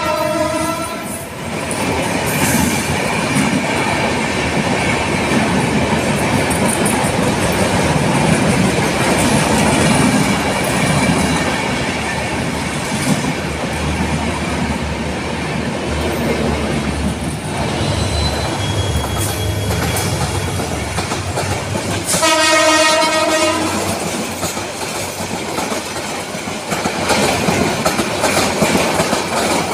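Passenger train coaches running past close by, a steady rumble and clatter of wheels on the rails. A train horn sounds at the very start, ending about a second in, and again for about a second and a half about two-thirds of the way through.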